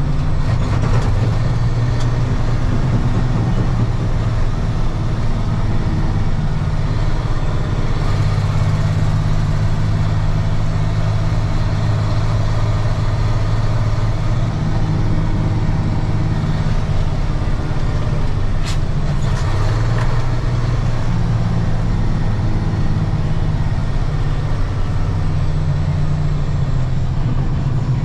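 1995 Ford L8000 diesel truck engine running steadily at a constant speed, with one sharp click about two-thirds of the way through.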